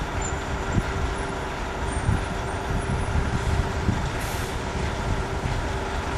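Wind buffeting the microphone over the distant, steady rumble of an approaching O-Train diesel railcar, with a faint steady hum throughout.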